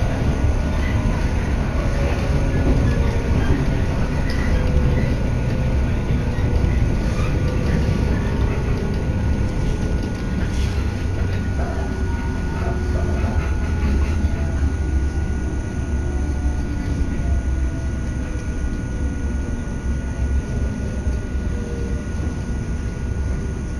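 Inside the passenger car of a moving electric local train: a steady low rumble of the wheels on the rails, with a faint motor whine that slowly falls in pitch.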